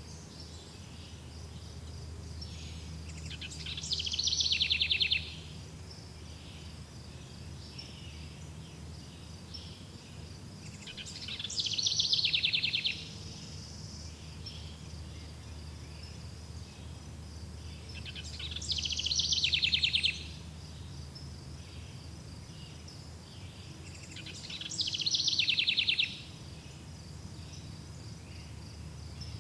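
Forest ambience: a songbird sings the same trilled phrase four times, about every seven seconds, each phrase swelling and then cutting off. Underneath runs a steady high insect chirring and a low rumble.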